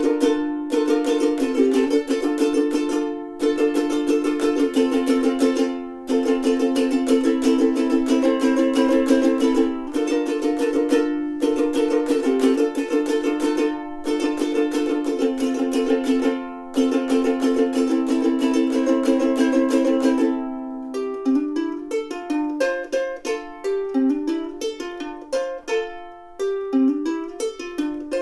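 Snail UKS-220 soprano ukulele strummed in chords, with short breaks between phrases; about twenty seconds in it changes to picked single notes playing a melody.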